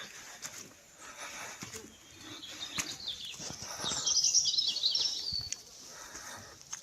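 A songbird singing a rapid run of high, twittering notes about three and a half seconds in, lasting under two seconds, over faint outdoor background noise.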